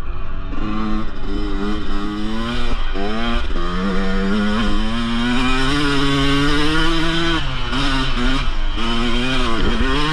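Yamaha YZ125's single-cylinder two-stroke engine under way off-road, its pitch climbing and dropping again and again with the throttle, held fairly steady for a few seconds in the middle before several quick dips and rises near the end.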